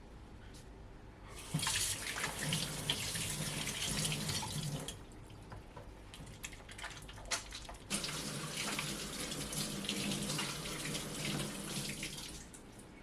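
Water running from a tap into a sink in two spells of about three and four seconds, with small knocks and clinks of handling between them.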